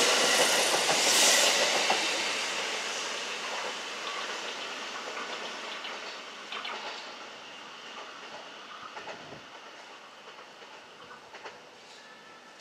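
Kintetsu electric train running past and moving away, its rumble and wheel clatter over the rail joints loud at first and fading steadily.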